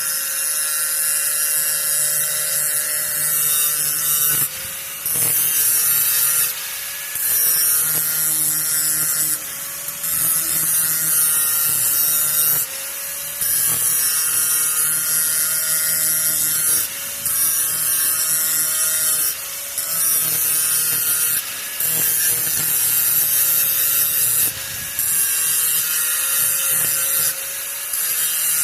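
Grinder running against the worn metal edge of a power-rake blade, grinding it clean: a steady motor whine under a loud grinding hiss. The hiss drops away briefly every two to three seconds and then comes back.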